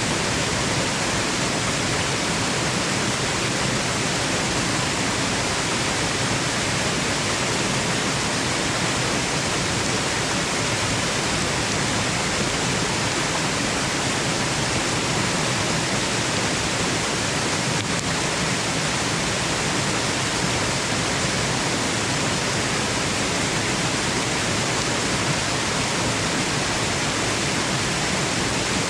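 Waterfall rushing, a steady, even water noise without breaks, played as white noise for sleep.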